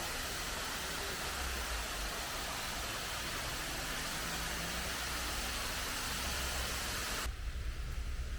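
Passenger train running: a steady low rumble under a wide rushing hiss. About seven seconds in, the hiss cuts off suddenly and leaves a lower, uneven rumble.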